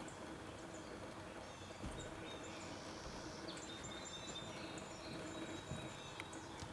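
Faint outdoor ambience: birds chirping briefly and intermittently over a low, steady background hum.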